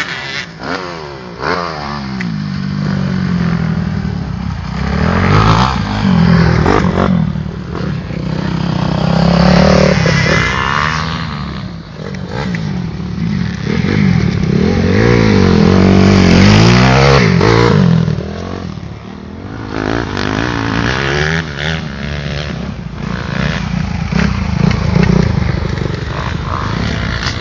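Several motocross motorcycles racing by on a dirt track, engines revving up and down as they accelerate and back off, loud and overlapping, with quieter dips between passes.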